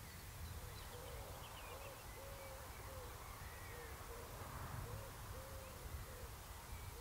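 A bird cooing in repeated low phrases, one longer note in each, over faint higher chirps from small birds and a steady low rumble.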